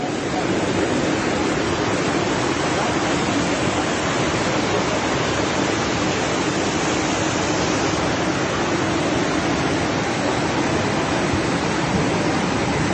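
Fast-flowing floodwater rushing past, a loud, steady wash of water noise.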